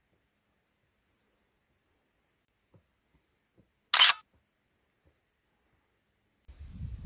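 Autumn insects singing in the forest, a steady high-pitched shrill chorus. About four seconds in there is one brief, sharp, loud burst, and near the end the chorus cuts off as an irregular low rumble takes over.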